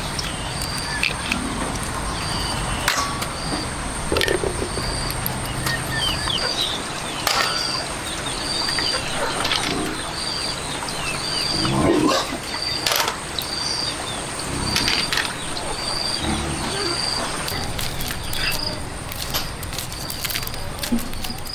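A short high-pitched chirp repeating about once a second over a continuous thin high drone, from calling animals, with scattered knocks and rustling.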